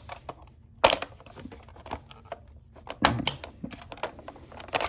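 Small plastic clicks and taps from a Hess toy rescue truck being handled as its ladder is lowered. Two sharper clacks come about a second in and about three seconds in.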